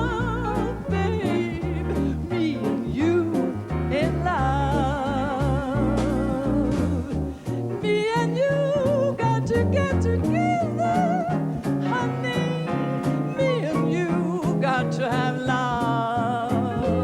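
Swing jazz band playing: a walking bass line under a lead melody sung or played with wide vibrato.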